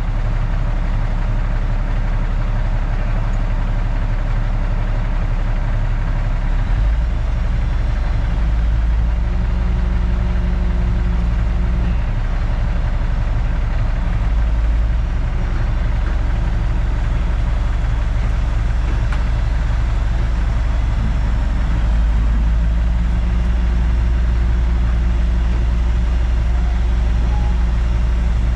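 Semi truck's diesel engine running steadily at low speed while the truck is pulled up and backed down. The low engine drone gets stronger about seven seconds in.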